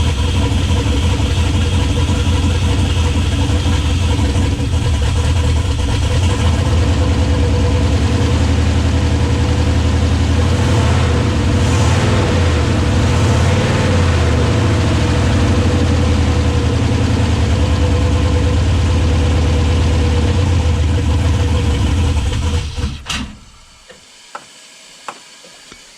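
Turbocharged 6.0 V8 with an aftermarket cam, running on its original untuned calibration and held just off idle with a touch of throttle because it won't idle on its own. The engine shuts off suddenly near the end, leaving a few faint clicks.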